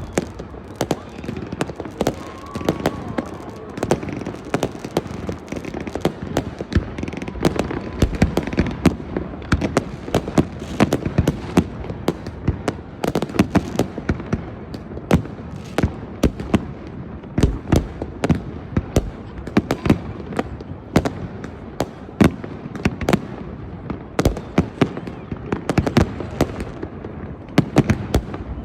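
Many fireworks going off at once across a town: a dense, irregular barrage of bangs and crackles, near and far, with no pause.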